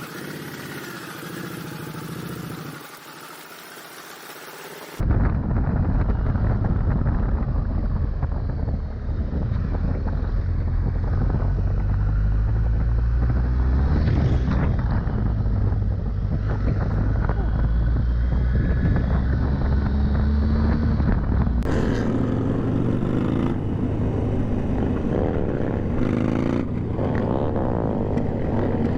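Motorcycles riding, with the engine running under heavy wind noise. The sound changes abruptly twice, about five seconds in and again about twenty-two seconds in, to a different ride each time.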